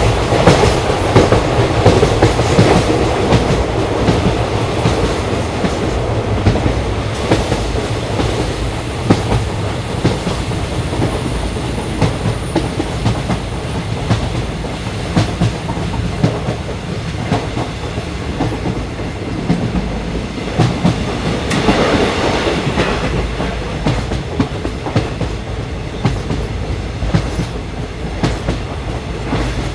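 Train running along the rails: a steady rumble with the clickety-clack of wheels over rail joints. A faint high whine comes in briefly about a third of the way through, and the noise swells for a couple of seconds about three quarters of the way in.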